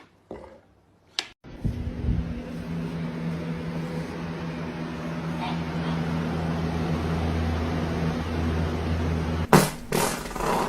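A click, then a steady low electrical hum, like a motor or appliance running, that stops after about eight seconds; a few sharp clicks or knocks follow near the end.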